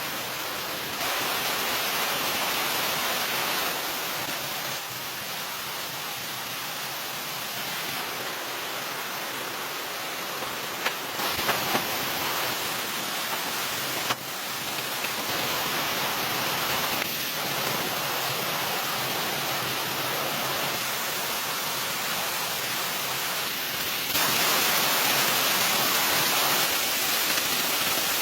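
A steady rushing noise that steps up and down in level at several sudden cuts, loudest near the end, with a few brief clicks a little before the middle.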